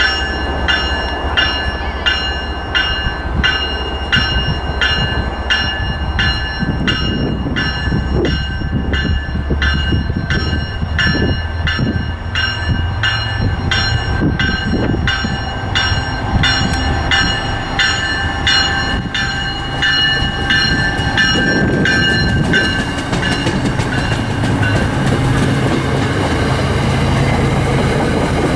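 A train passes with a low engine rumble and rail clatter. A warning bell rings about twice a second over it, weakening and stopping in the last part.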